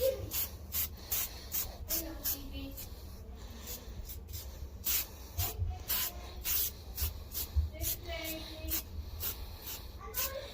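Quick, repeated swishing strokes as headlight coating is applied to a plastic headlight lens, two or three short hisses a second at an uneven pace.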